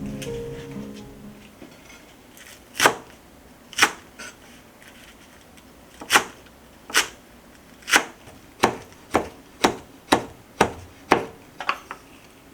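Knife chopping on a cutting board: about a dozen single strokes, spaced out at first, then coming about two a second.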